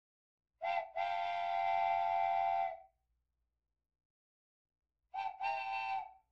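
A train-style whistle blowing in blasts: a short toot then a long one of about two seconds, and near the end another short toot followed by a longer one, with complete silence between, as an added sound effect.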